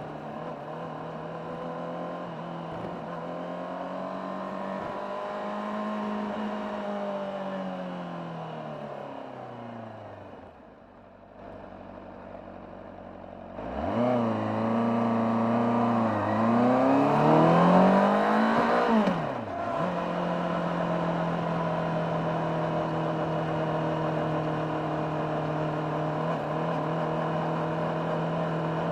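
Honda CBR600RR inline-four engine on its original exhaust, heard from on board. It holds a steady cruise, then the revs fall away as the throttle closes, and it runs quietly for a few seconds. Just under halfway through it opens up hard, pitch climbing through one gear change and again until the throttle snaps shut, then settles into a steady cruise.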